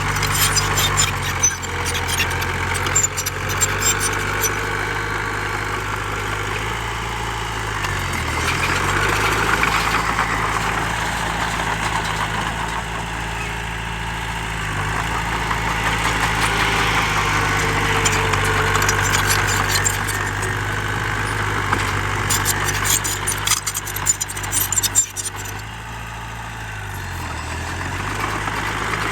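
Heavy diesel earthmoving engine running steadily; its low note dips briefly three times. Rattling, clicking clatter comes near the start and again about three-quarters through.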